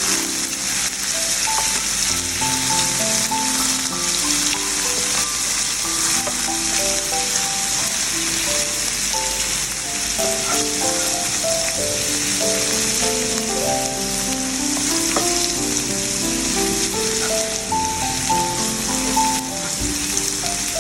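Garlic frying in hot olive oil in a pan, a steady sizzle, over background music.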